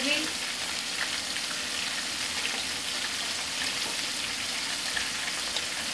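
Breaded cube steak frying in hot oil in a skillet: a steady sizzle with faint tiny pops.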